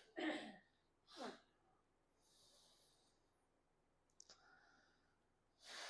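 Near silence broken by a few short breaths close to the microphone, the last a drawn-in breath near the end, and a small click a little after four seconds.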